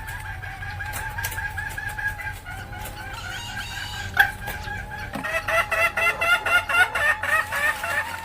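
Junglefowl hen cackling (ngekek): a rapid, loud run of repeated calls, about five a second, starting about five seconds in, over a steady wavering tone. A single sharp click sounds shortly before the run.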